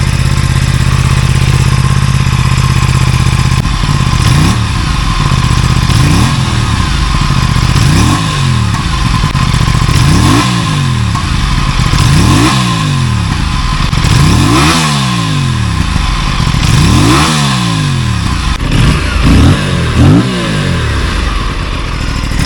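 Aprilia RS457 liquid-cooled parallel-twin engine idling steadily for a few seconds, then blipped through repeated free revs about every two seconds, each rev rising and falling back, with a couple of quicker short blips near the end.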